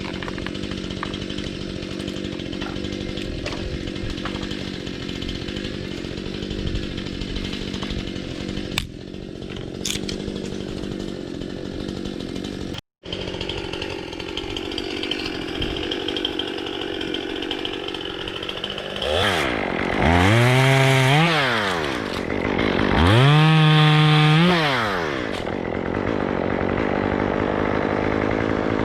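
Two-stroke chainsaw running steadily, then revved up to full speed twice for about two seconds each, its pitch rising and falling back with each rev, in the second half.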